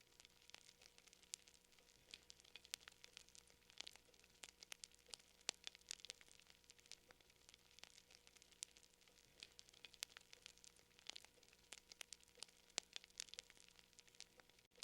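Faint crackling of a wood fire: irregular sharp pops and snaps, several a second, over a soft hiss.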